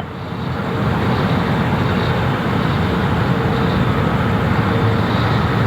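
Jet airliner engines running at high power, a loud steady rumble with a faint whine over it, building up in the first second and then holding, as of an airliner at takeoff thrust.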